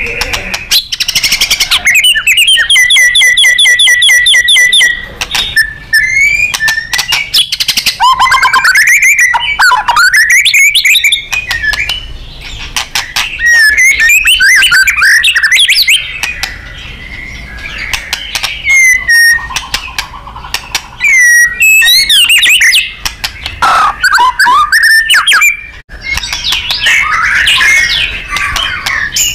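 White-rumped shama (murai batu) singing loudly and continuously: varied whistled phrases, sweeping up-and-down glides and fast runs of repeated notes, with a few short breaks. This is the full, rapid-fire 'nembak' song that keepers use to train contest birds.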